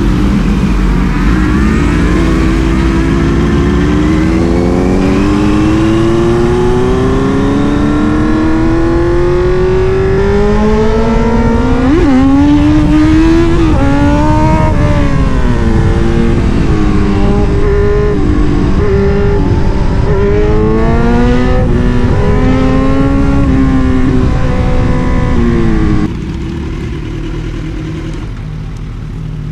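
Superbike engines rising in pitch under a long acceleration, then revving up and down. About 26 seconds in, the sound drops suddenly to a quieter, low engine rumble.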